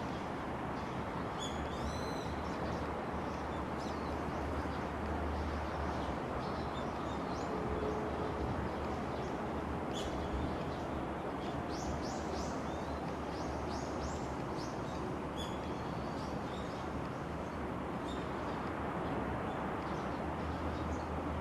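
Small birds chirping in many short, high calls over steady outdoor background noise.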